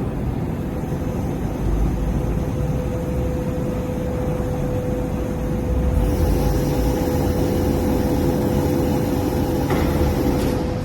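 Three-way VNA forklift truck running: a steady whine over continuous machine noise, with a brighter hiss added about six seconds in.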